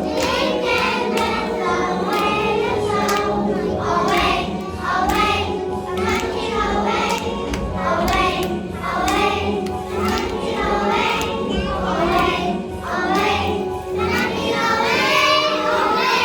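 A group of young children singing together in chorus over a recorded musical backing track with a steady beat.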